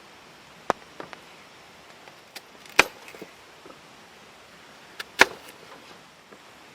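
Kitchen knife knocking on a cutting board a handful of times while ingredients are cut, the two loudest knocks nearly three seconds in and just after five seconds.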